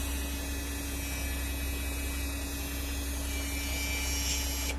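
Army truck engine idling steadily in neutral, heard from inside the cab: a constant low rumble with a steady hum over it, which cuts off abruptly at the end.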